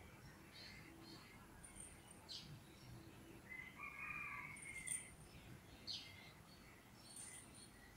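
Faint background bird chirps, short and scattered, with one longer call about halfway through.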